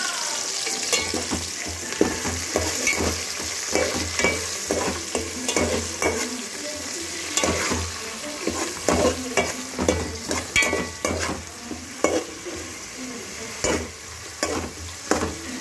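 Metal spoon stirring sliced onions and green chillies as they sizzle in oil in a metal pot, with repeated scrapes and knocks of the spoon against the pot over a steady hiss.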